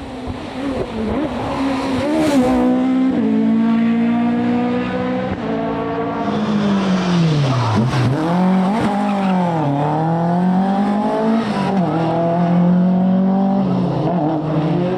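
Rally car engine revving hard, its pitch climbing through gear changes and dropping sharply as it lifts off about eight seconds in, then picking up again, with a brief hiss of tyre noise around the lift.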